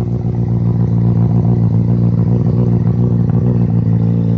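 Honda CBR600RR inline-four engine idling steadily through a Leo Vince aftermarket exhaust.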